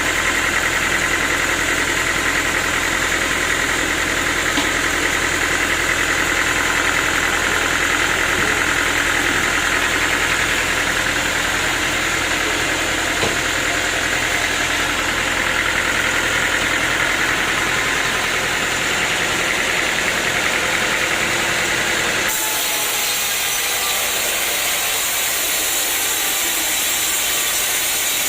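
Sawmill machinery running with a steady, constant mechanical drone. About 22 seconds in it cuts abruptly to a higher, hissing noise.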